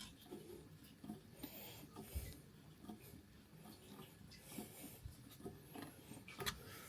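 Faint scattered clicks and rustles of hands working an old gate valve's handwheel on the pipework.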